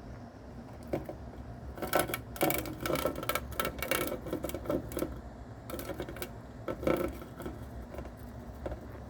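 Irregular crackling and clicking from a live cicada being torn apart and eaten by a mouse. The clicks come in a dense run that starts about a second in, is thickest in the middle and fades out near the end, over a steady low hum.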